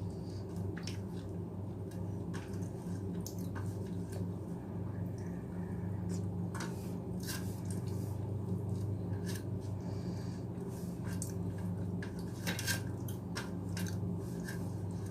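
Close-up eating sounds: chewing and wet mouth noises with scattered small clicks and taps of food against a plate, over a steady low hum.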